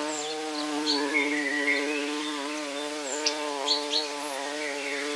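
Bees buzzing: a steady, slightly wavering drone, with faint short high chirps above it.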